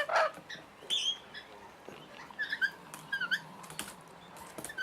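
Parrots giving short, squeaky chirps that bend in pitch, in a few scattered clusters, with a couple of sharp clicks in between.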